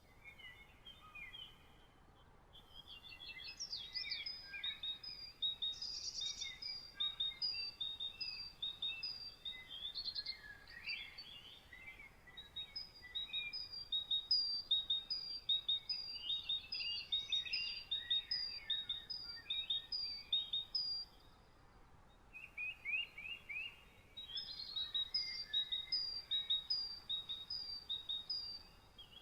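Several songbirds singing together in a morning chorus: rapid series of short, high, repeated notes and trills. The singing drops away briefly about two seconds in and again a little past the twenty-second mark.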